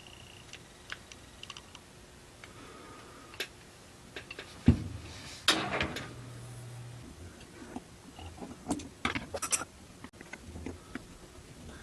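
Scattered light clicks and metallic taps from the small metal parts of an antique hand-operated valve lapping tool being handled on a bench. There is one sharper knock about five seconds in, followed by a brief scraping rush.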